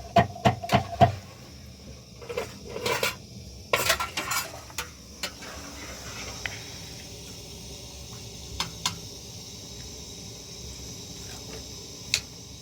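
Dishes and metal utensils clinking and clattering: quick knocks in the first second and bursts of clatter a few seconds in, then a steady faint hiss with a few single clinks.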